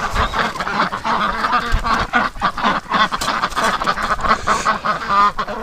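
A bunch of domestic ducks quacking and chattering together without a pause, with one clearer drawn-out call near the end.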